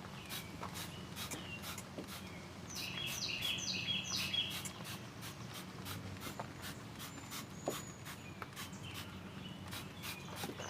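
Spray bottle squirting a liquid dressing over an engine bay in quick, repeated short sprays, a few a second. Birds chirp in the background, loudest a few seconds in.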